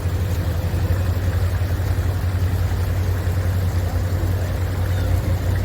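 Steady low hum of an idling engine, with a faint steady tone above it.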